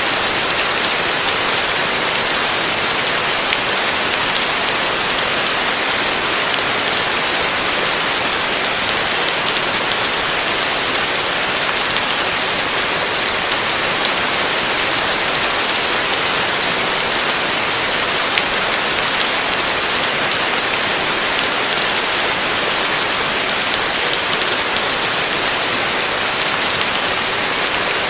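Heavy rain falling steadily on a roof: a dense, even hiss with the patter of individual drops running through it.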